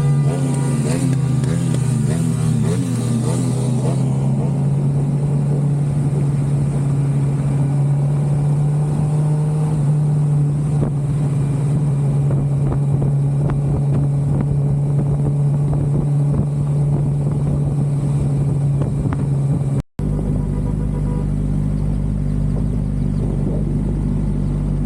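Motorcycle engine, a 2013 Suzuki GSX-R600's inline-four, running at steady revs while riding. The sound cuts out for an instant about 20 seconds in and comes back as a lower, steadier rumble.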